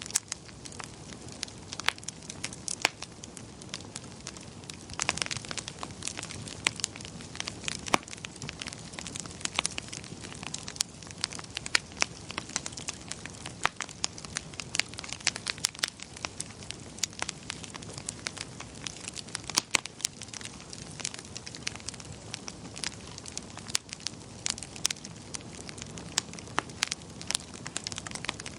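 Wood fire burning in a fireplace, with a steady low hiss and many sharp, irregular crackles and pops.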